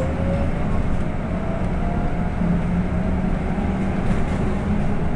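City bus heard from inside the cabin: a steady low rumble with a faint whine that slowly rises in pitch.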